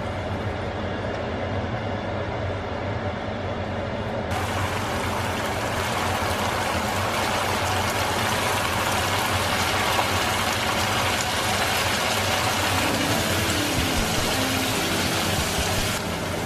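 Spiced onion masala sizzling as it fries in oil in a non-stick pan, a steady hiss over a low hum. The sizzle turns suddenly louder and brighter about four seconds in.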